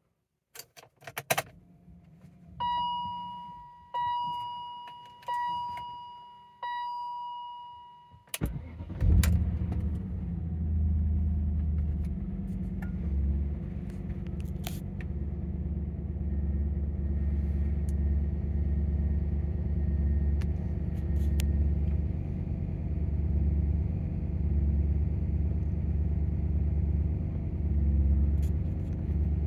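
A few clicks, then four ringing chime tones about a second and a half apart, each dying away. About eight seconds in, the BMW E39 M5's 4.9-litre S62 V8 cranks and fires on a cold start, flares briefly, and settles into a steady idle with a low rumble.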